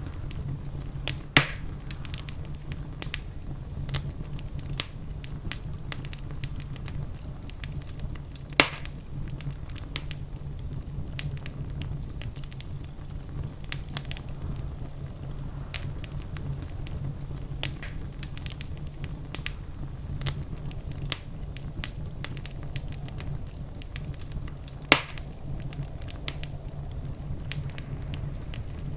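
Wood fire crackling in a fireplace: a steady low rumble of the flames with scattered sharp crackles and three louder pops, about a second and a half in, near the middle, and near the end.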